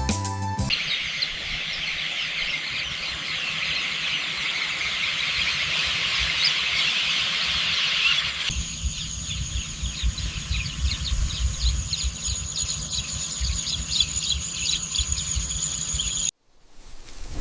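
Rice-field countryside ambience: a dense chorus of high, rapid chirping. About halfway through it changes to a thinner chirping over a steady high-pitched drone and a low rumble, and near the end it cuts out abruptly.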